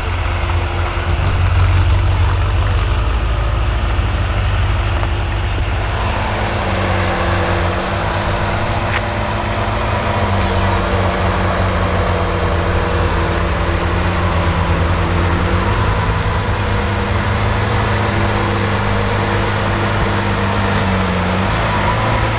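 BMW M5 F90's twin-turbo V8 idling through a Supersprint exhaust: a steady deep drone, its note shifting slightly now and then.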